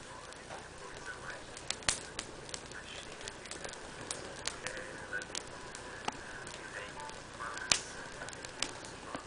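Fire crackling: irregular sharp pops and snaps over a steady low hiss, with the loudest pops about two seconds in and again near the end.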